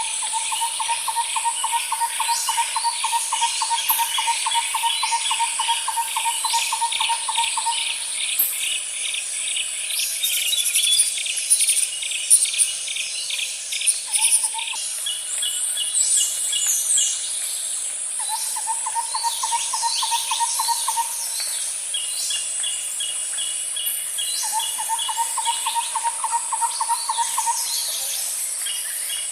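Outdoor nature ambience with animal calls: a long, even trill near 1 kHz for about eight seconds, then shorter repeats of it, over quick trains of high chirps and a steady high insect drone.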